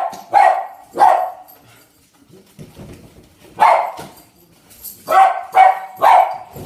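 Pet dog barking: three quick barks, a pause of about two seconds, then four more barks.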